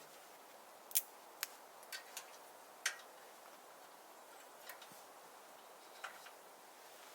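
Firewood burning in a clock-type wood stove, crackling with sharp, irregular pops over a faint steady hiss. The loudest pops come about a second in and about three seconds in.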